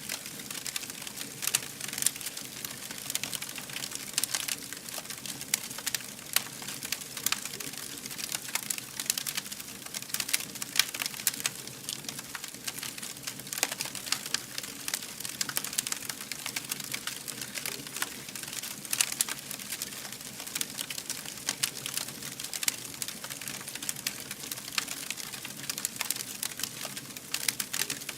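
Wood fire burning: dense, irregular crackling over a steady hiss, with now and then a louder pop.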